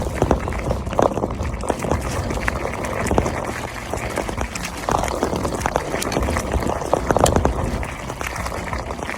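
Mountain bike rolling along a rail trail: steady rolling noise from the tyres with many small rattling clicks.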